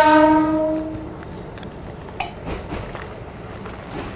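Running noise of a moving passenger train carriage. It opens with one loud pitched tone that fades over about a second, and a few light clicks come about two seconds in.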